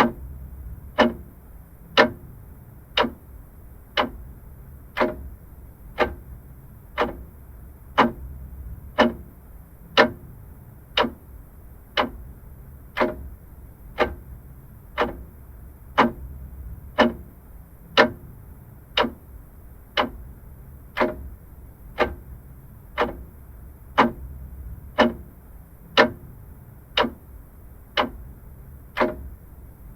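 Vintage mechanical clock ticking steadily, about one tick a second, each tick a sharp, even click over a faint low background hum.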